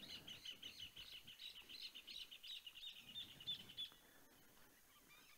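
A bird singing a fast series of faint, high chirps that stops about four seconds in.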